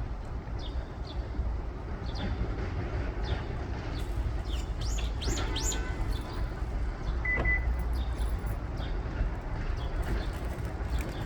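Small birds chirping in short, scattered calls, with a quick run of rising calls about five seconds in, over a steady low rumble.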